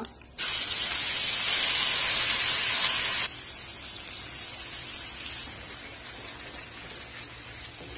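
Wet ground garlic chutney paste hitting hot sesame-oil tempering in a kadai, with a loud sizzle that starts suddenly about half a second in. After about three seconds the sizzle drops suddenly and goes on quieter while the paste is stirred into the oil.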